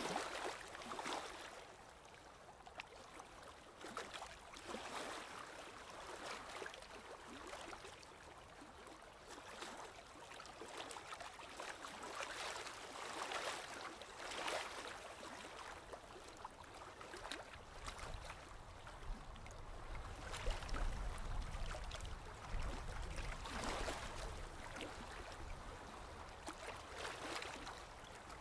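Sea waves washing onto the shore, with swells of surf and gurgling water every couple of seconds, and a low rumble for several seconds past the middle.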